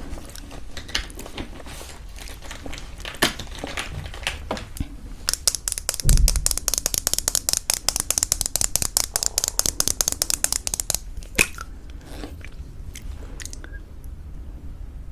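Close-miked eating of crunchy homemade granola in thick yogurt. Scattered crunches and mouth sounds give way to a dense run of crisp, rapid crunching from about a third of the way in to about three-quarters through, then sparse clicks again.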